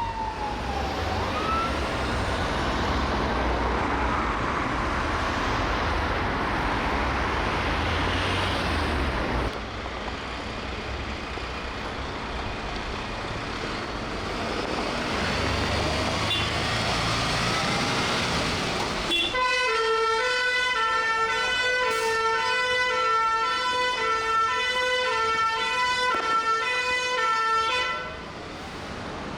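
UK fire engines responding on sirens over engine and traffic noise: first a wailing siren sweeping up and down, then, about two-thirds of the way in, a loud two-tone siren alternating evenly between a high and a low note for about nine seconds before it cuts off.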